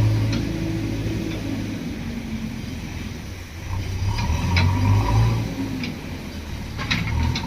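Diesel engine of a JCB 3DX backhoe loader working under load, its note swelling near the start and again about halfway through, with a few sharp metallic clanks.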